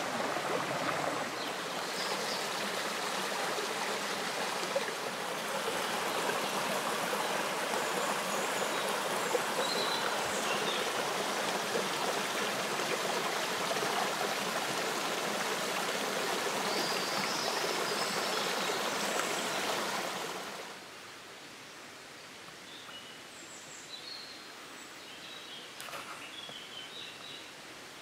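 Steady rush of river water, which drops suddenly to a quieter level about twenty seconds in, with a few faint bird chirps above it.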